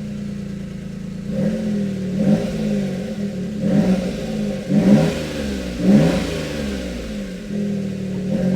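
Suzuki Jimny JA22's 660 cc engine idling, then revved up and down over and over from about a second in, rising and falling in pitch roughly once a second.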